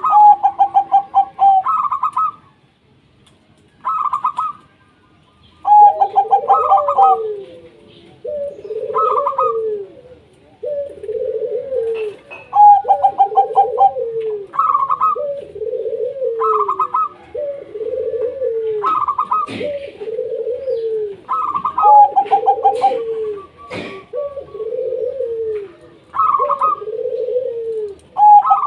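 Zebra doves (perkutut) cooing: repeated fast, pulsed higher phrases, joined about six seconds in by a steady run of lower, arched coos roughly every one and a half seconds.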